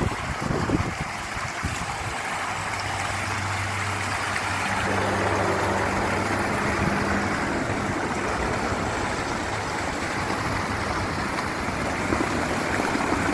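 Steady rush of water pouring down an artificial waterfall, with a low hum underneath for the first half.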